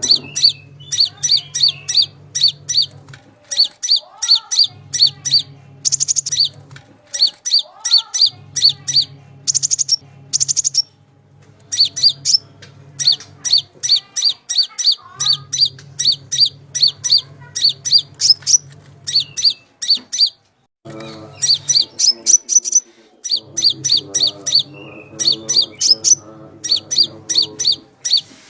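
Konin birdsong played as a masteran training recording: fast runs of high, sharp chirps, about five a second, in phrases of a few seconds with short pauses between. A low steady hum runs under many of the phrases.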